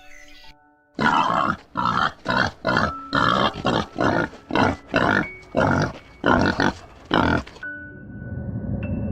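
An animal giving a rapid series of harsh, rasping grunts, about two a second, starting about a second in and stopping about a second and a half before the end.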